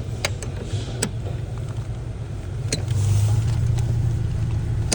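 Car engine running with a steady low rumble that gets louder about three seconds in, with a few sharp clicks over it.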